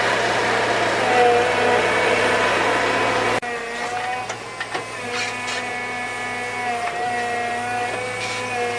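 A motor running steadily at a constant speed, its hum cutting off abruptly about a third of the way in and resuming slightly quieter, with a few light clicks and knocks over it.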